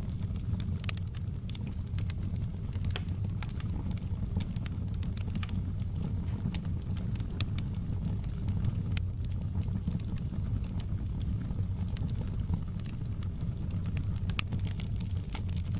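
Wood fire burning in a fireplace, crackling with frequent small, sharp pops over a steady low rumble of the flames.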